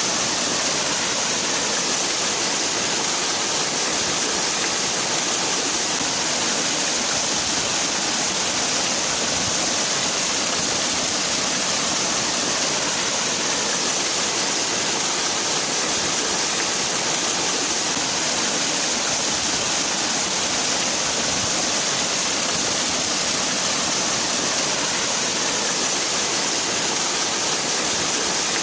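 Waterfall: water falling and splashing in a steady, unbroken rush, strong in the hiss.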